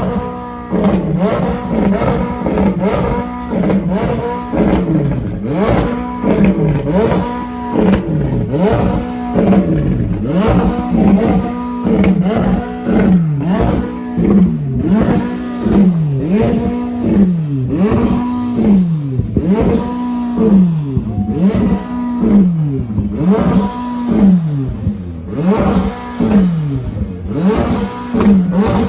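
A car engine being revved over and over, roughly every second and a half: each time the pitch climbs quickly, then falls back as the revs drop.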